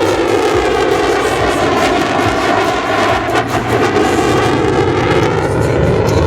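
F-35B Lightning II's F135 jet engine, loud and continuous as the fighter flies past, with a sweeping shift in tone as it passes, nearest about three and a half seconds in.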